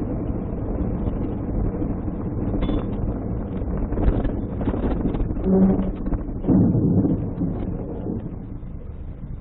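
Vehicle noise: a steady low rumble with wind buffeting the microphone. There are two brief louder swells a little past the middle, and the noise eases off toward the end.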